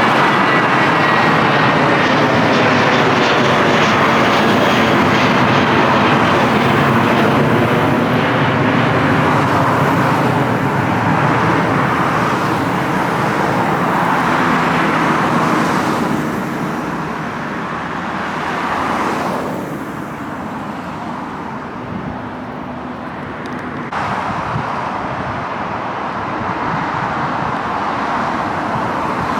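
Heavy jet airliner's engines on a low takeoff climb-out, a loud rumble with whining tones that slide down in pitch as it passes, then fading after about sixteen seconds to a duller rumble with road traffic under it.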